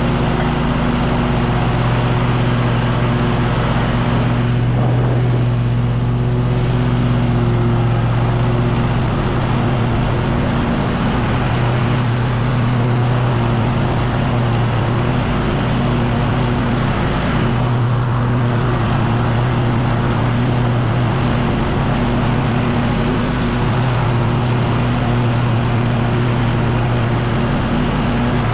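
Echo PB-9010T backpack leaf blower's two-stroke engine running steadily and loud under throttle, with a rushing air sound.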